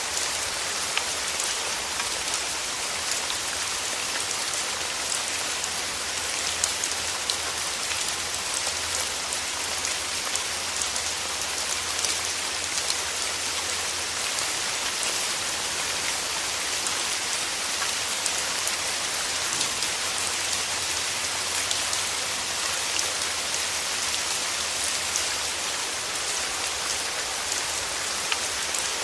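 Steady rain falling, an even hiss with many close individual drops pattering and ticking on leaves and petals.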